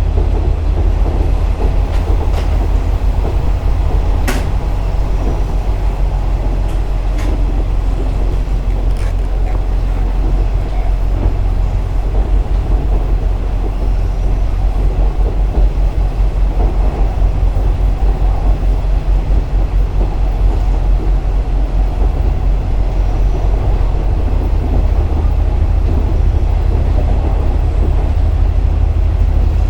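KiHa 47 series diesel railcar running along the line: steady diesel engine rumble with wheel-on-rail noise. A few sharp clicks come in the first ten seconds, the loudest about four seconds in.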